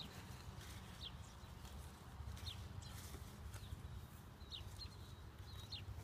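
Birds chirping in short, high, falling notes every second or so over a steady low rumble, with scattered faint knocks and scrapes.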